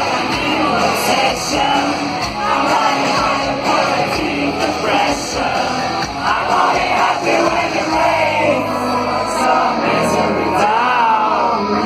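Live rock band playing a song at full volume, with a woman singing the lead vocal over guitars and drums.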